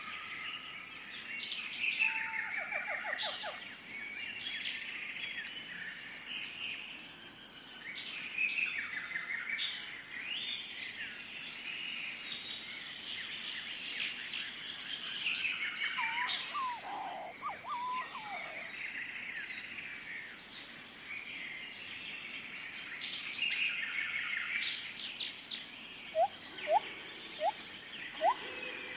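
Several songbirds chirping and trilling at once, in a busy chorus over a steady high-pitched tone. From about 26 seconds in comes a run of short, louder rising chirps.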